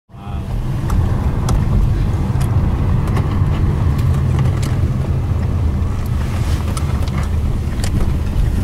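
A car driving: steady low rumble of engine and road noise, with a few faint clicks.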